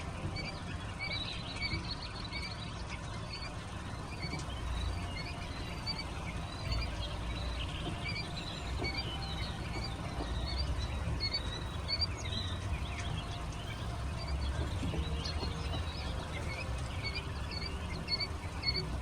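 Young chicks peeping over and over, short high peeps from several birds at once, over a steady low rumble.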